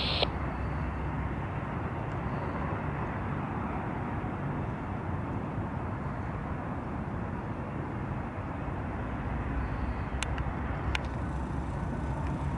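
Freight trains passing: the steady low drone of an approaching GE AC4400CW diesel locomotive under the rumble of wheels on rail from a passing autorack train, with two sharp metallic clicks near the end.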